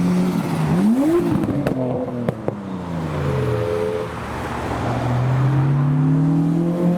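Modified cars' engines revving and accelerating past. The engine note climbs about a second in, falls away over the next couple of seconds, then rises slowly again. A few sharp cracks sound about two seconds in.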